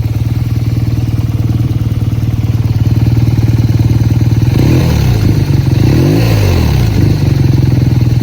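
BMW R 12 G/S boxer-twin engine idling steadily, revved once about halfway through with the pitch rising and falling back to idle.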